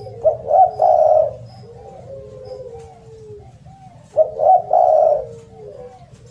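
Spotted dove (derkuku) cooing loudly: two phrases about four seconds apart, each a few short notes running into a longer coo. Softer coos are heard between them.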